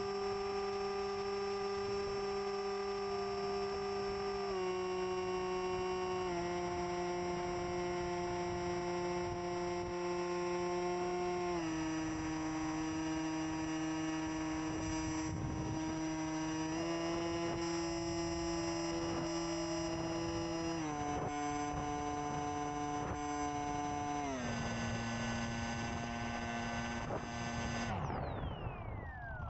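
HobbyZone AeroScout 2 RC plane's electric motor and propeller whining in flight, heard from a camera on its landing gear. The pitch steps down in stages as the throttle is eased back, rises once in the middle, and near the end slides sharply down as the motor is throttled off.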